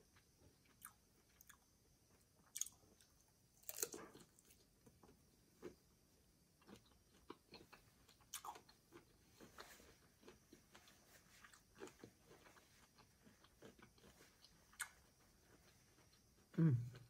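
Close-miked chewing of cold cooked shrimp: soft, wet mouth sounds and small clicks and smacks at irregular moments. A brief louder low sound comes near the end.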